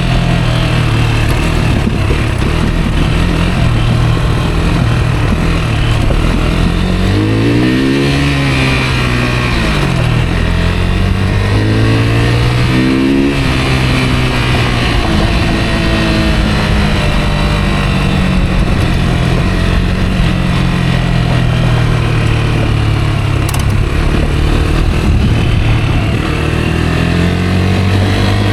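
Rieju Aventura 125's single-cylinder four-stroke engine running steadily as the motorcycle is ridden. Its pitch rises and falls twice, about seven seconds in and again about twelve seconds in, as the throttle is opened and closed.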